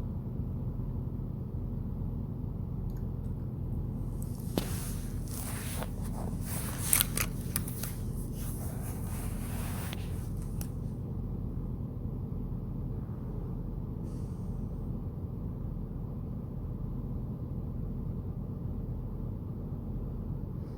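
Steady low engine hum in a truck cab, with about five seconds of rustling and scraping with a few sharp clicks from about four and a half seconds in.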